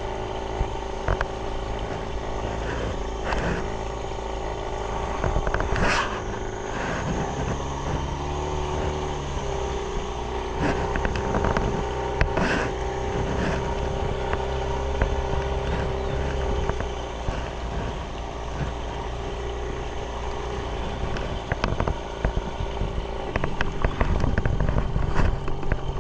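Small boat engine running steadily, its note shifting slightly now and then, with a few sharp knocks over it.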